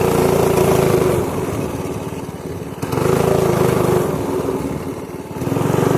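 Pit bike engine running under a rider, the throttle opened in three surges with the engine easing off between them.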